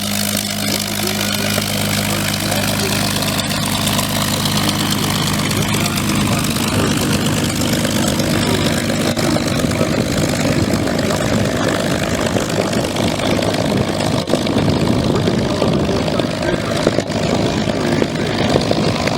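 Propeller aircraft's piston engine running in flight. A steady drone turns rougher and a little louder after a few seconds.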